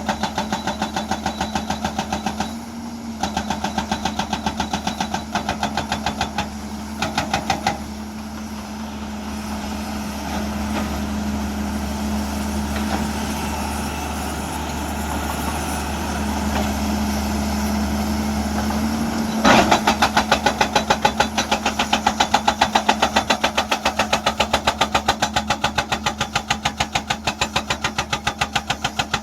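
Hyundai 210 excavator's hydraulic breaker hammer pounding rock in rapid, evenly spaced blows over the diesel engine, with short breaks early on. The hammering stops for about ten seconds with only the engine running, then resumes with a hard first strike about two-thirds of the way through.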